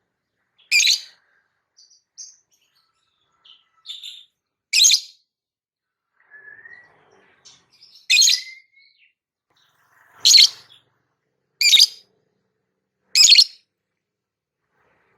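A bird giving six loud, shrill, short calls a second or more apart, with softer chirps and a brief whistle between them.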